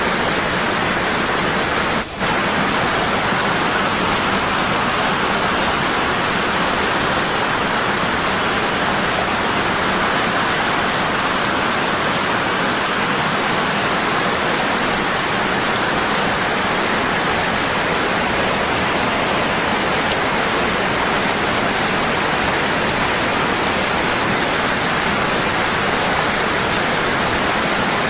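Waterfall falling strong and constant: a steady, dense rush of water, with a momentary dip in loudness about two seconds in.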